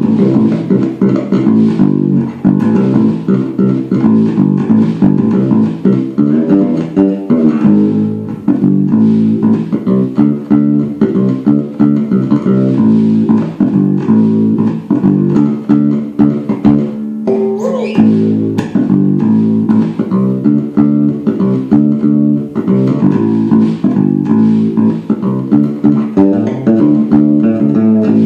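Homemade fretless electric bass played in a steady run of plucked notes, with bass and treble both turned up for a punchy, overdriven tone. About 17 seconds in, one note slides up in pitch, as a fretless neck allows.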